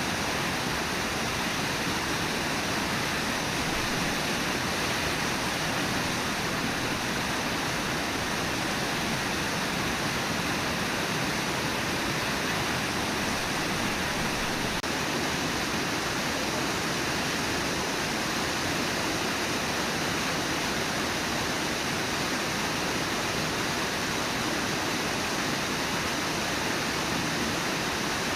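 Steady rush of water from Brooks Falls and the Brooks River.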